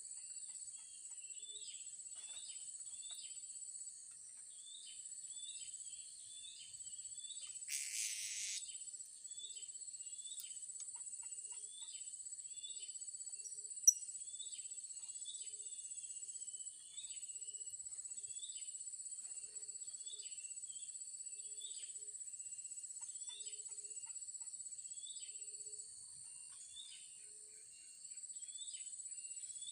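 Blue-crowned hanging parrots giving short, high chirps over and over, about one or two a second, over a steady high drone of insects. A brief rustle comes about eight seconds in and a sharp click a few seconds later.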